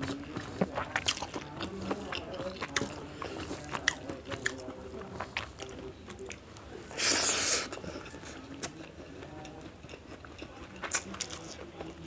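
Close-up mouth sounds of a person eating rice mixed with chutney by hand: chewing with many small wet clicks and smacks. About seven seconds in comes one louder, short hissing burst.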